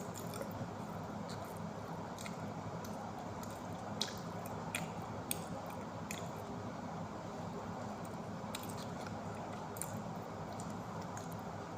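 A person chewing pizza close to the microphone: soft, wet mouth sounds with scattered sharp clicks.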